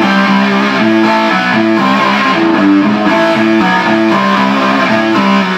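Electric guitar played through a 10-watt GR Amplifiers JK800 valve amplifier with 6AQ5 output tubes, a line of picked notes changing pitch several times a second.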